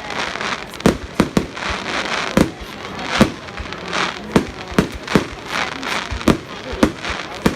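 Fireworks going off: an irregular string of about a dozen sharp bangs over continuous crackling.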